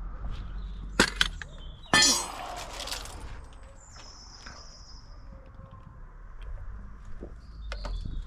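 Two sharp metallic clangs about a second apart, the second followed by a short rattle, as metal tools or parts are knocked or set down while working on a car.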